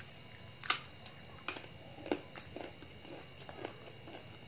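Crisp bites into slices of raw green mango, then chewing close to the microphone: several sharp crunches in the first two and a half seconds, followed by softer chewing.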